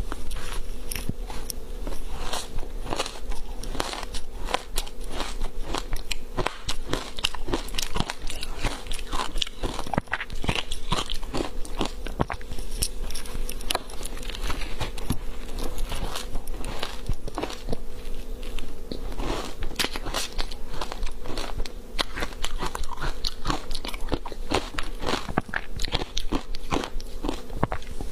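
Frozen matcha-powder ice being bitten and chewed close to the microphone, a dense, continuous, irregular crunching and crackling.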